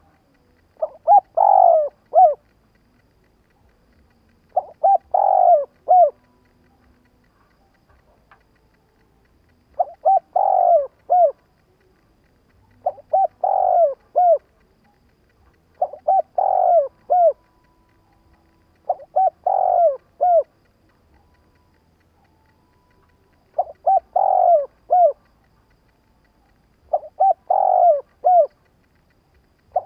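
Spotted dove cooing, a decoy bird's call used to lure wild doves. It gives a short coo phrase ending in a separate last note, eight times, one every three to four seconds.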